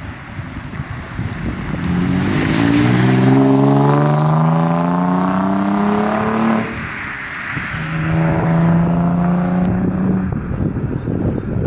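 A 3.0-litre car engine and exhaust accelerating, the pitch climbing steadily for about four seconds. About six and a half seconds in the pitch drops, as at a manual gear change, and a second, steadier pull follows, with wind rushing on the microphone.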